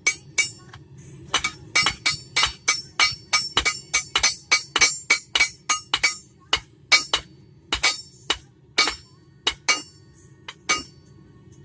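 Hand hammer striking a hot railroad spike on an anvil: a run of sharp, ringing blows, about two to three a second, spacing out in the last few seconds.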